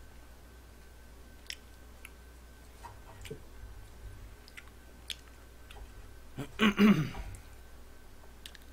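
Close-up chewing of food, with a few light clicks of utensils against a frying pan. A louder, wet chewing or smacking noise comes about two-thirds of the way through.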